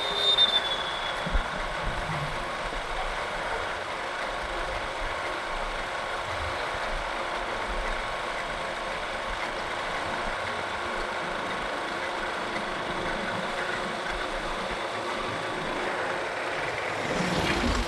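Engine and road noise from a motorcycle riding through city traffic, running steadily. There are a few short knocks in the first two seconds and a brief swell near the end.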